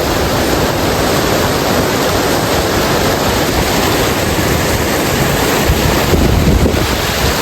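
Waterfall pouring and splashing close by: a loud, steady rush of water. A low rumble of wind on the microphone swells about six seconds in.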